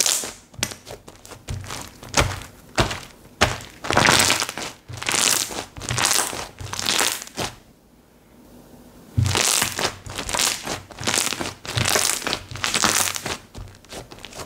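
Slime being pressed, folded and squished by hand, giving a run of short crackly, popping squishes, with a brief pause about eight seconds in.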